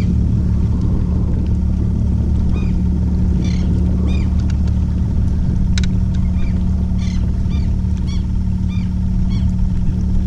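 Motorboat engine running with a steady low drone, joined by a series of short repeated bird calls.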